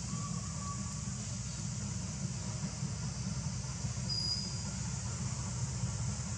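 Steady outdoor background noise: a low rumble under a high, even hiss. Two brief, faint high chirps stand out, one at the very start and a higher one about four seconds in.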